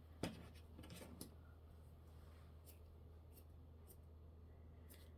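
Faint snips of scissors cutting craft material, two in the first second or so, followed by a few light ticks.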